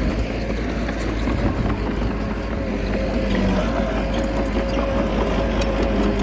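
Small bulldozer's diesel engine running steadily, with scattered light clicks and clanks, and a steady whine coming in about three seconds in.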